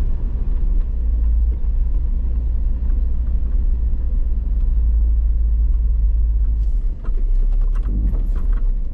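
Vehicle engine running as a steady low rumble, with a short run of sharp clicks and crackles about seven to eight and a half seconds in.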